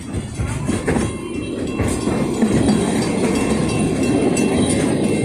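Puffing Billy narrow-gauge steam train running along the line: a steady rumble that grows louder about two seconds in.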